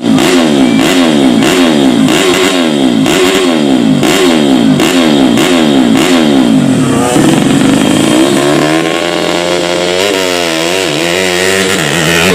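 Small motorcycle engine revving hard in quick repeated rises, each cut off sharply, about two a second for the first seven seconds. After that its pitch wavers up and down and other engines can be heard alongside it.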